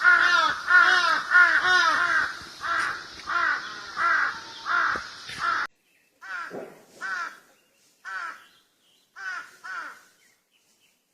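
Crows cawing: a fast, unbroken run of harsh caws over a steady hiss, then an abrupt cut about halfway to a cleaner recording with caws in spaced ones and twos that stop near the end.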